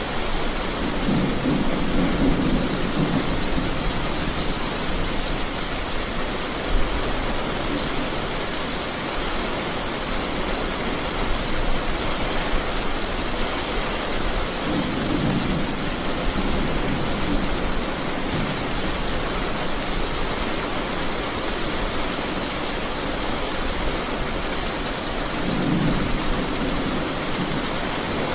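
Steady rain with three low rolls of thunder: one about a second in, one around the middle, and one near the end.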